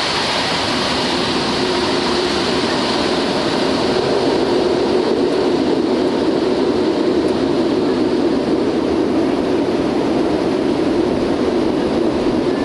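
Concorde's four Olympus 593 turbojet engines at high power, heard inside the cockpit as a loud, steady rumble and rush of noise that grows a little louder about four seconds in.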